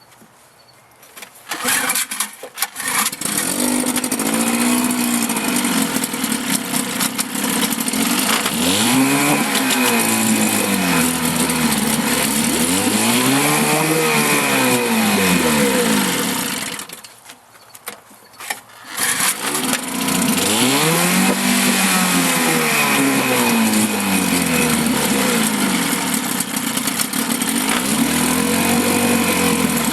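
1954 Johnson CD-10 5.5 hp two-cylinder two-stroke outboard motor running in a test barrel. It starts about two seconds in, revs up and back down several times, cuts out for about two seconds near the middle, then starts again and keeps revving.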